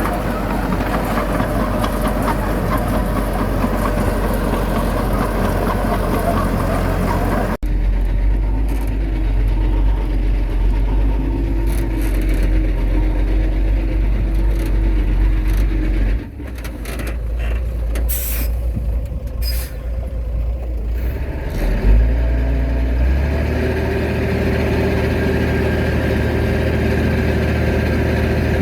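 Heavy diesel earthmoving machinery running: the engines of a bulldozer and dump truck at work. The engine sound changes abruptly several times, and there are two short high hisses about two-thirds of the way through.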